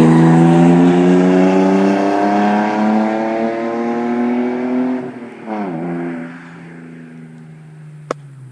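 BMW E36 323is straight-six with a straight-piped exhaust (muffler deleted) pulling hard in first gear, its pitch climbing steadily for about five seconds. It then drops off, revs up briefly, and settles to a lower, quieter drone. A sharp click near the end.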